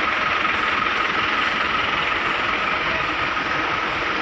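Loaded truck on the move: a steady rumble of engine and road noise.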